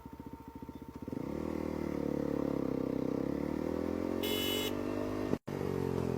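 Motorcycle engine idling with an even pulsing beat, then revving up about a second in and running at a steady, slowly shifting note as the bike pulls away. A brief high-pitched beep comes near the end.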